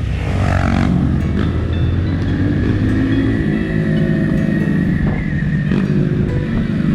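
Motorcycle engine running steadily under way, a continuous low drone, with faint music playing over it.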